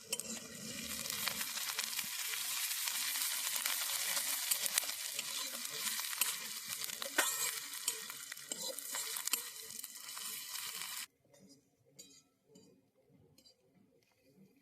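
Ginger paste, with onion and garlic, frying in hot oil in a pan and being stirred: a steady sizzle with crackles. It cuts off suddenly about eleven seconds in, leaving a few faint ticks.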